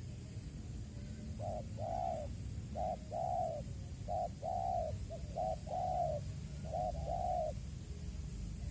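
Spotted dove cooing: four phrases, each a short note followed by a longer one, starting about a second and a half in, over a steady low rumble.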